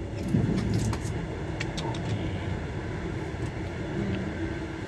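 Steady low rumble inside a passenger train carriage, with a few short clicks and knocks in the first couple of seconds.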